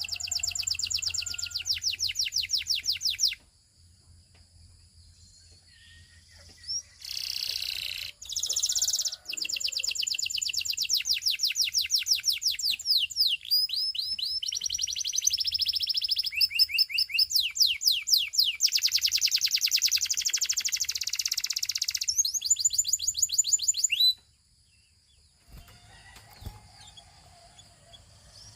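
Russian-type domestic canary singing in rolling trills of fast repeated notes, each tour at a different speed and pitch. There is a short phrase at the start, then a pause, then a long unbroken song of about fifteen seconds with rising and falling rolls. It goes quiet near the end.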